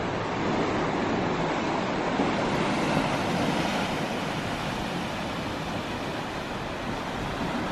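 Steady coastal wind on the microphone mixed with the wash of sea surf, an even rushing noise with no distinct events.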